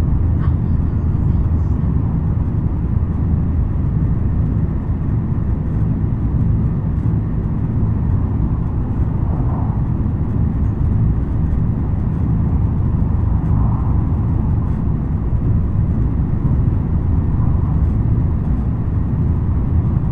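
Steady low running noise of a JR West N700 series 5000 (N700A) Shinkansen heard inside the passenger car while the train is moving: wheel, track and air rumble with no clear motor whine. A few faint swells rise and fall over it.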